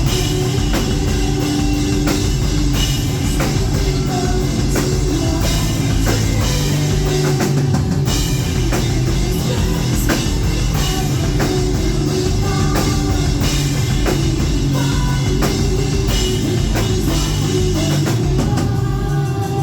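Metal band playing live and loud: a drum kit keeping a steady driving beat under guitars.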